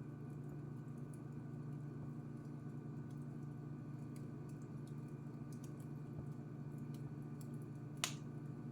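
Wood fire crackling in a fireplace: scattered faint ticks and one loud sharp pop near the end, over a steady low hum.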